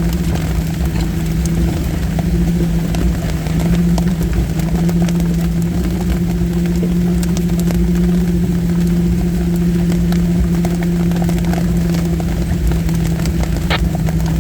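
Off-road vehicle's engine running steadily at low trail speed, a constant low drone, with scattered sharp ticks over it.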